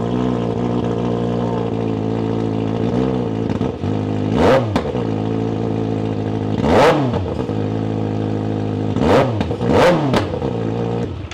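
2024 Kawasaki ZX-6R's inline-four engine idling with the stock exhaust and its catalytic converter taken off. The throttle is blipped four times, each a quick rev up and back down, and the engine is shut off just before the end.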